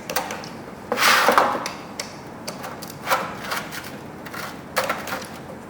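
Workshop handling noises: a few sharp knocks and clicks, with a louder scraping rub about a second in and shorter ones later.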